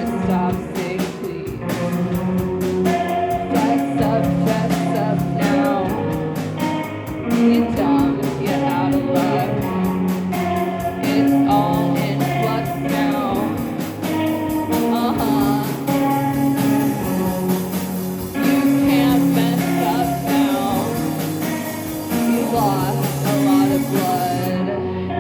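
Live band playing a song: singing over guitar, with a steady beat of drum strikes.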